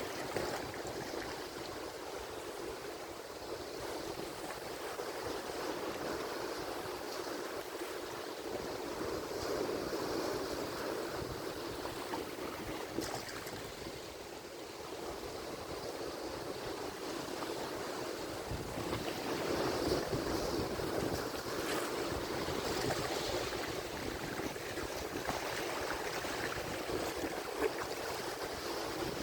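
Ocean waves breaking and washing on the shore in a continuous rushing surge that swells and eases every few seconds, building strongest in the second half.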